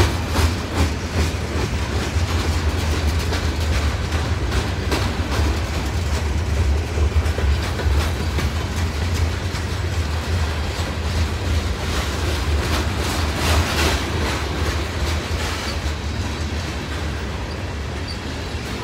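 Freight train's covered hopper cars rolling past: a steady heavy rumble of steel wheels on rail, with repeated clicks as the wheels cross rail joints, a thicker run of clicks about two-thirds of the way through, and the rumble easing slightly near the end.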